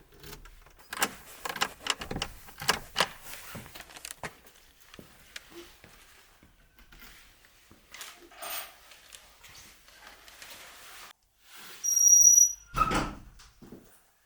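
Irregular knocks and clatter, then near the end a short high squeak followed by a heavy thud.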